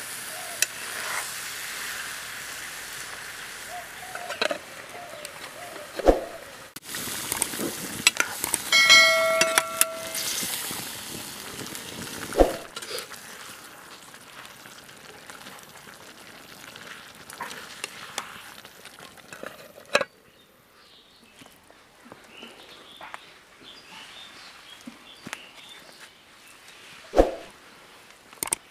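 Chicken curry sizzling and frying in a metal wok, with a metal ladle scraping and knocking against the pan as it is stirred. A bell-like chime rings about nine seconds in, and the sizzle is fainter in the second half.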